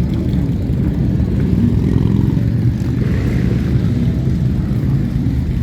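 A motor vehicle engine running steadily nearby.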